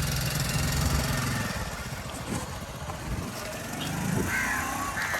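A small engine running with a low, even hum, loudest in the first two seconds and then fading away. Crows caw near the end.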